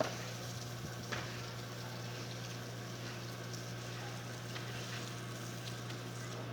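A steady low hum under an even hiss, with a couple of faint clicks near the start.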